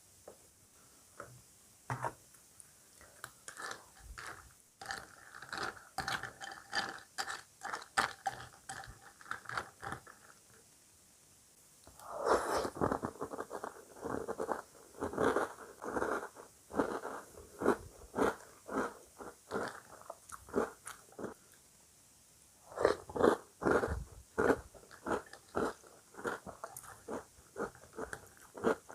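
Close-miked chewing of crunchy breakfast cereal: rapid crisp crunches in three bouts, with short pauses between them, the loudest bout starting about twelve seconds in.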